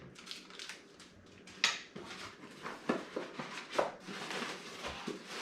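Scattered light clicks and knocks of PC hardware being handled, a few sharp taps over a couple of seconds.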